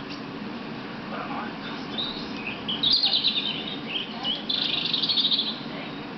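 Small songbirds chirping and trilling, played back from a bird video through a device speaker. Scattered chirps build to a loud rapid trill about three seconds in, then another for about a second near the end.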